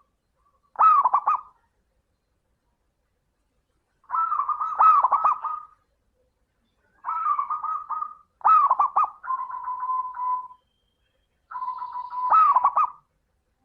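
Zebra dove (perkutut) cooing: five separate phrases of rapid, rolling coo notes at one steady pitch, with short silences between them.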